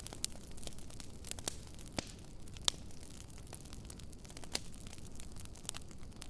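Wood fire crackling, with irregular sharp pops and snaps over a low steady rumble, one pop louder than the rest a little before the middle.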